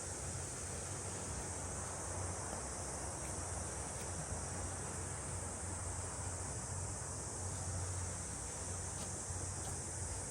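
Steady high-pitched chorus of insects, unbroken throughout, over a low, steady rumble.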